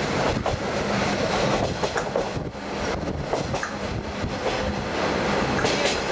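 Diesel trolley train running along the track, heard from inside the open-windowed car: a steady rumble of wheels on rail with irregular clicks and knocks from the rail joints.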